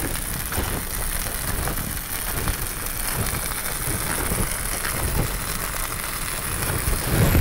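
Food frying in a hot pan: a steady sizzle with many small crackles.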